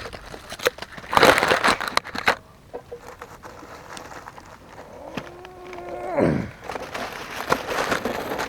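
Loud rustling and handling noise for about a second as the camera is set down, then quieter scraping and crackling of leaves and debris as a half-buried glass bottle is worked loose by hand. A short pitched sound, held and then falling, comes about six seconds in.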